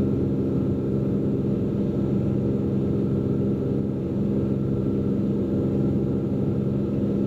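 Cessna P210N's turbocharged six-cylinder engine and propeller droning steadily in a climb after takeoff, heard from inside the cockpit.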